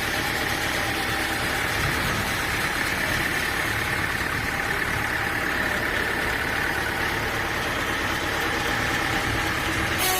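Sawmill engine running steadily, a continuous machine drone with a constant pitch.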